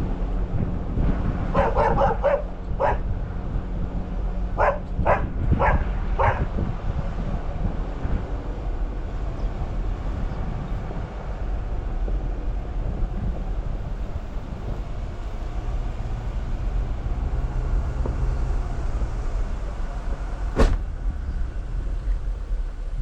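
A dog barks about eight times in the first six seconds, over the steady low rumble of a Jeep Wrangler driving. A single sharp click comes near the end.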